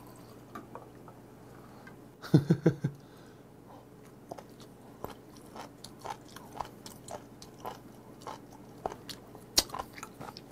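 A person chewing raw seafood close to the microphone, with many sharp wet mouth clicks and smacks at an uneven pace. About two seconds in there is a brief, louder run of several quick throaty sounds.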